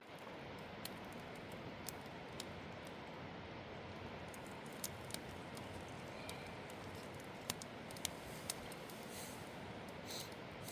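Wood campfire crackling: a steady low hiss of burning with scattered sharp pops and snaps, about one a second.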